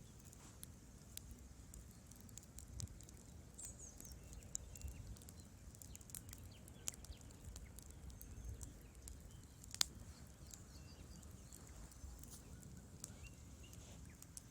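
Wood fire crackling in a fireplace: irregular small pops and snaps from burning logs over a low rumble of flame, with one sharper snap about ten seconds in.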